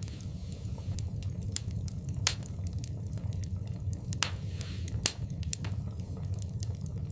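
Wood fire burning in a fireplace: a steady low rumble of flames with irregular crackles and pops, the sharpest snaps a little over two seconds in and again about five seconds in.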